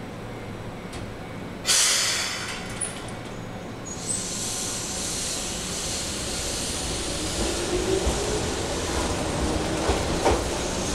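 Keihan 700 series electric train pulling out: a sudden loud hiss of air about two seconds in as the brakes release, then the running noise builds, with a motor whine rising in pitch as it gathers speed and a few clicks of wheels over the rails near the end.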